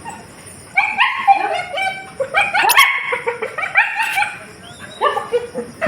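Puppies whimpering and yipping in a run of short, high-pitched cries.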